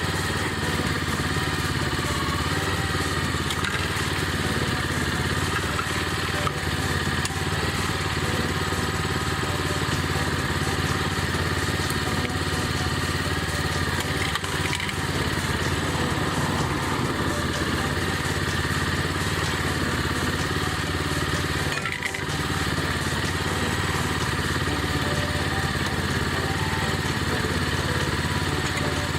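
Small GH100 petrol engine, salvaged from a walk-behind rice transplanter, running steadily at an even speed while it drives a homemade can crusher. Near the 22-second mark there is a brief dip in the sound.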